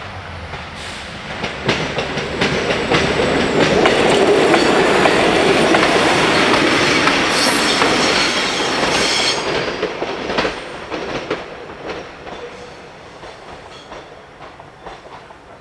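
Train passing over a level crossing. The rumble of its wheels on the rails swells over the first few seconds, is loudest in the middle with clicks over the rail joints and a brief high squeal, then fades away.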